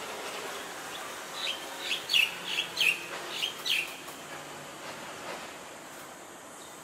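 A bird calling: a quick run of about eight sharp notes, each falling in pitch, over about two seconds, above a steady background hiss.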